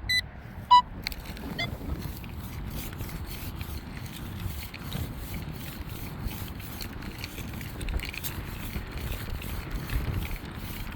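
A metal detector gives a few short beeps in the first second, signalling a target. Then wind rumbles steadily on the microphone, with scraping and rubbing noises throughout.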